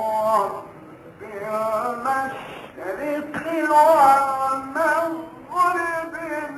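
A man's voice chanting Quran recitation in a melodic, ornamented style, holding long notes that waver and slide in pitch, breaking off briefly twice between phrases.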